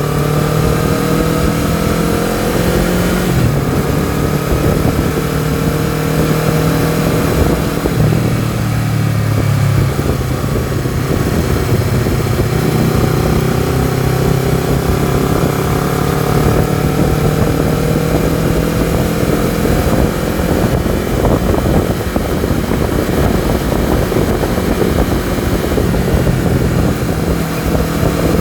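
Honda CBR250RR engine and exhaust while riding, the engine note climbing slowly through the gears with a couple of shifts, under steady wind rush on the camera.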